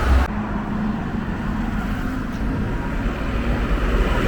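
Road traffic by the roadside: a motor vehicle's engine running, heard as a steady low rumble with a faint hum. The hiss above it cuts out abruptly about a third of a second in.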